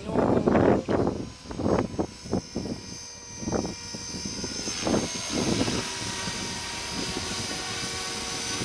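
Electric RC helicopter (Beam Acro480) in freestyle flight. Its rotor blades give irregular loud whooshes during manoeuvres over the first few seconds, then settle into a steadier whine of the motor and rotor from about five seconds in.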